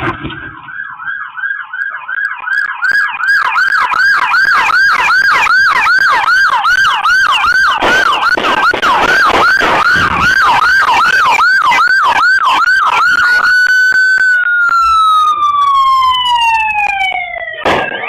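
Electronic emergency-vehicle siren on a fast yelp, its pitch sweeping up and down a few times a second, then switching into a long falling wail near the end. A couple of sharp bangs cut across it at the very end.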